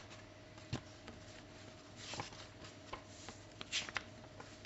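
Pages of a picture book being handled and turned: light rustles and scattered small clicks and taps, with two short rustles about two seconds in and near four seconds.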